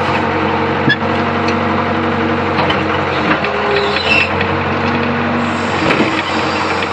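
Hitachi UH025 excavator's diesel engine running steadily, its tones shifting as the machine works, with a sharp click about a second in.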